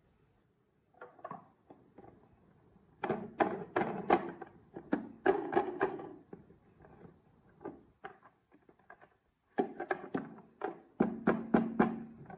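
Wooden marbles clattering and knocking along a wooden marble-run track, in two busy runs of sharp clicks with a light ringing: one about three seconds in, another near the end.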